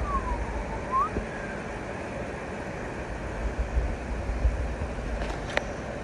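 Low rumble of wind on the microphone on a forest trail, with a short whistle-like call that dips and rises in pitch in the first second and a sharp click near the end.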